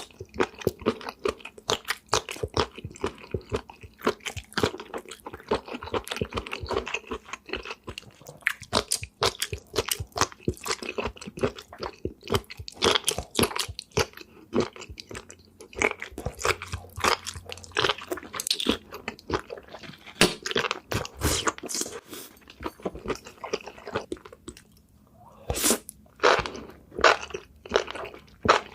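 Close-miked crunching and chewing of food, a rapid run of sharp crunches with a short pause about 24 seconds in, followed by louder crunches.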